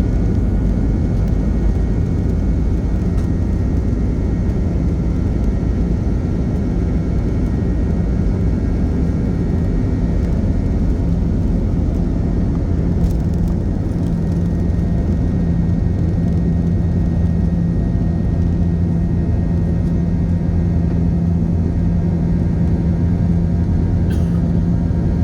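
Aircraft engines during takeoff: a steady, loud rumble with a low hum that grows stronger about halfway through.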